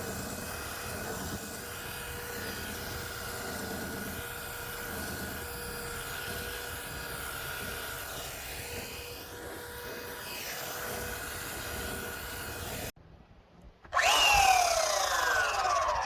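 Belt sander with coarse 30-grit paper running steadily against the truck's body, a constant motor whine over gritty noise. It cuts off abruptly near the end. After a brief pause a louder whine comes in, falling in pitch as if spinning down.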